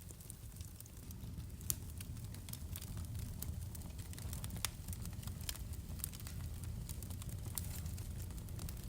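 Wood fire crackling: irregular sharp pops and snaps over a steady low rumble of the flames, with one louder pop a couple of seconds in.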